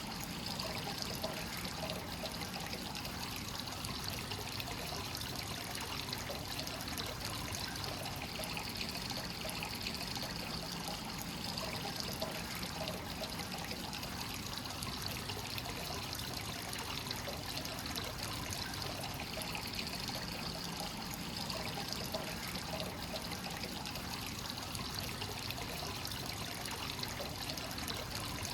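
Hot-spring water pouring steadily into a bath, a continuous splashing trickle of free-flowing spring water that never lets up.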